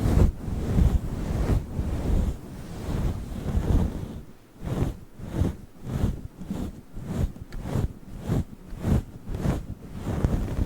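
A fluffy microphone windscreen rubbed and brushed right on the microphone, giving a muffled rumbling swish. About four seconds in it turns to quick regular strokes, roughly two or three a second.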